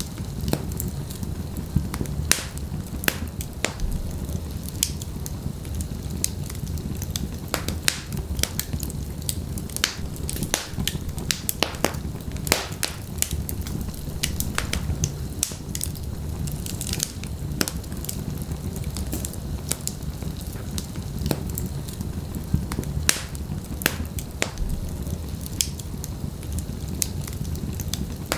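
Wood fire burning in a fireplace: a steady low rumble of flames with frequent sharp crackles and pops from the burning logs, irregular and unceasing.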